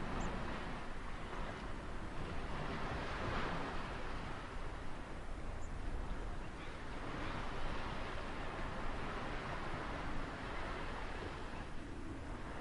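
Ocean waves washing onto a shore, swelling and easing about every four seconds, over a steady low rumble of surf.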